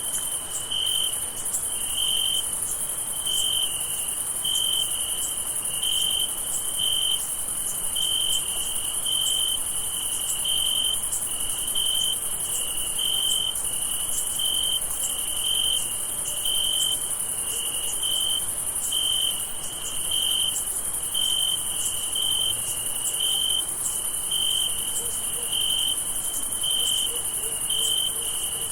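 Crickets chirping at night: a steady rhythm of short, clear chirps, about one and a half a second, over a continuous high, shrill insect trill.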